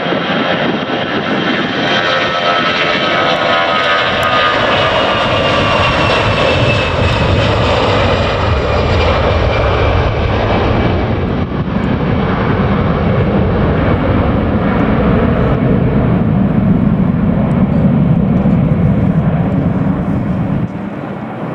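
easyJet Airbus A320's CFM56 jet engines at take-off power on departure. A whining tone falls in pitch over the first several seconds as the aircraft passes, then a low rumble builds and holds before dropping off suddenly near the end.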